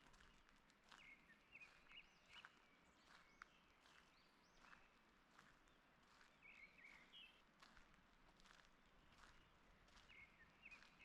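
Faint songbirds chirping in short phrases, heard a few times, over irregular footsteps on a forest path.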